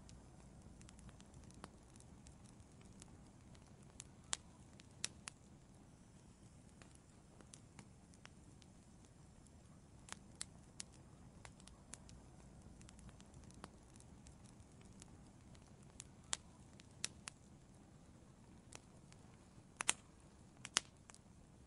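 Burning wood crackling in an outdoor fireplace: scattered sharp pops over a faint, steady low hiss, with a cluster of the loudest pops near the end.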